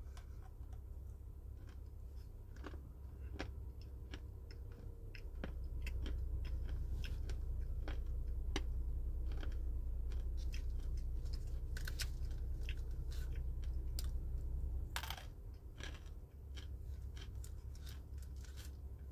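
Crunching and chewing a dry, brittle chunk of clay close to the mouth: many sharp crunches, the loudest about fifteen seconds in. Under it a low steady hum grows louder from about five seconds in to about fifteen.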